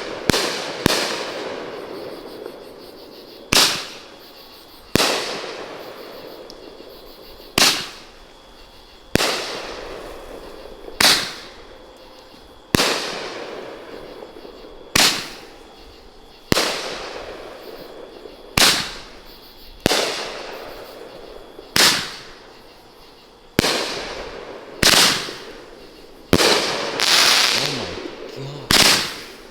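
A Hammer and Anvil 'Angel' fireworks cake firing shot after shot: a sharp, loud report about every one and a half to two seconds, each fading away in a long tail.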